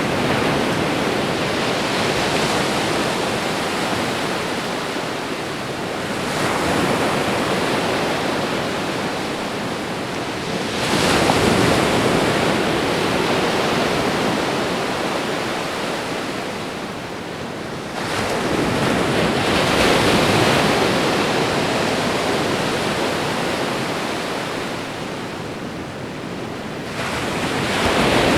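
Ocean waves breaking on a shore, a continuous wash of surf that surges as each wave breaks, about every six to eight seconds, and then slowly ebbs.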